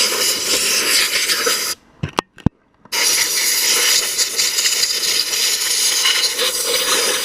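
Harbor Freight sandblast gun blasting glass bead media with compressed air against an oxidised aluminium engine, a loud steady hiss. It cuts off about 1.7 s in, two short clicks come in the gap, and the blasting starts again about 3 s in.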